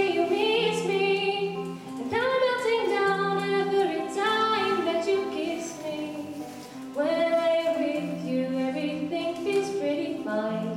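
A female voice singing a song over steady instrumental accompaniment. New sung phrases start about two seconds and seven seconds in.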